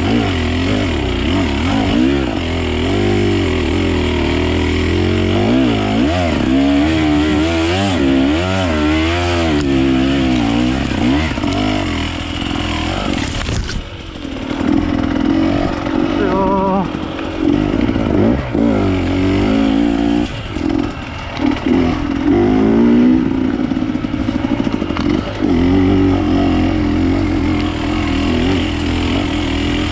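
Off-road enduro motorcycle engine being ridden hard, its revs rising and falling over and over as the throttle is worked. About halfway through it briefly drops off, then revs up again.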